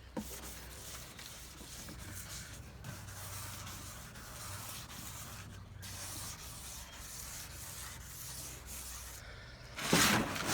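Wet-and-dry abrasive paper rubbed by hand over a car bumper: a steady run of sanding strokes with a couple of short pauses, growing louder and harder near the end.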